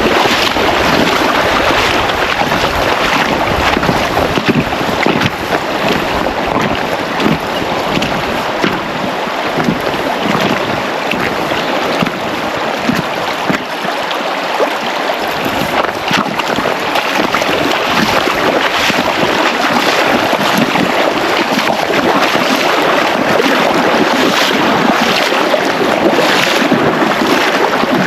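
Fast-flowing river water rushing: a loud, steady noise with a constant irregular spatter.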